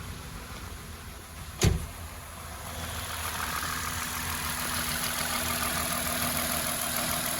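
2007 Lexus IS 350's V6 engine idling steadily, now running after its shorted fuel rail pressure sensor was replaced. There is a single sharp knock a little under two seconds in.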